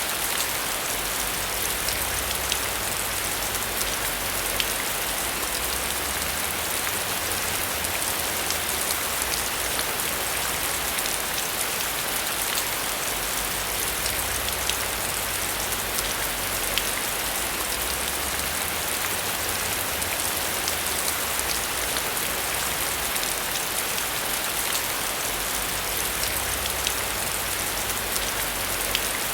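Steady heavy rain, with a dense patter of drops hitting a surface and a low rumble underneath.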